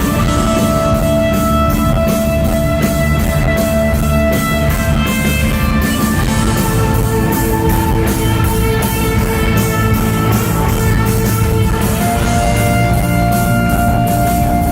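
Live rock band playing loudly through a concert PA, with guitar over a steady, fast beat and long held notes.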